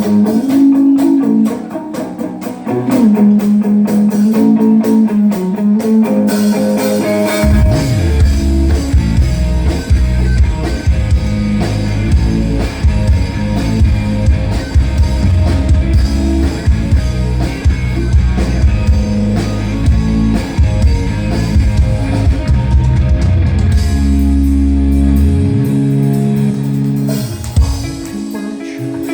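Rock band playing live: a guitar line alone at first, then drums and bass guitar come in heavily about seven seconds in; the bass drops away briefly near the end.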